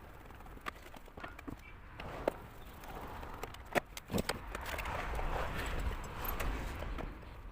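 A vacuum cleaner being unscrewed and taken apart by hand: scattered clicks and knocks of its casing and tools, with a few seconds of scraping and rubbing in the second half.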